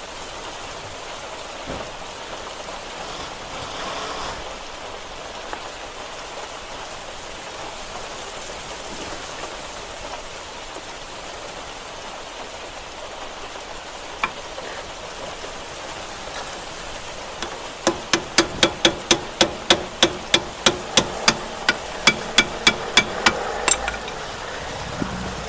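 Steady hiss of rain, and near the end a quick run of about twenty ringing hammer blows on metal, roughly three a second, as on a car's rear brake assembly.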